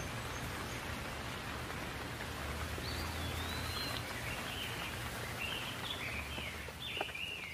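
Steady outdoor hiss with a low rumble, and a bird calling in short whistled phrases from about three seconds in.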